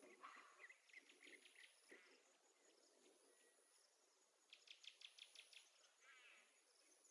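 Very faint birds chirping with insect chirring: a quick run of about eight chirps around the middle, then a short trill. It sounds like a soft nature-sounds background.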